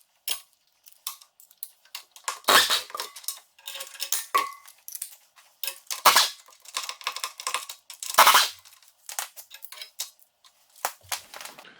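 Irregular metallic clanks and clicks of hand tools and steel bolts being worked loose from a tractor's frame rails, with a few louder short bursts of clatter.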